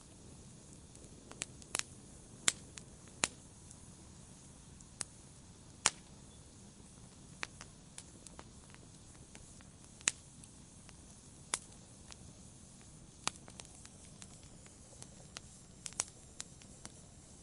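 Wood campfire burning: sharp, irregular crackles and pops over a soft steady hiss.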